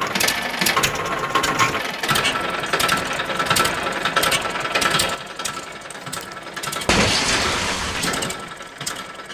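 Rapid, irregular mechanical clicking and rattling like small gears or a ratchet turning, with a sharper knock about seven seconds in.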